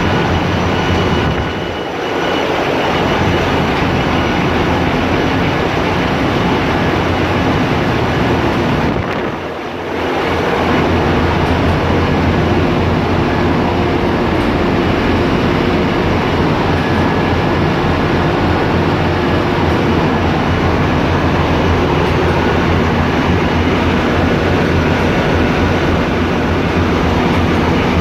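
Loud, steady machinery noise of a ship's engine room with diesel engines running, dipping briefly twice, about two and ten seconds in.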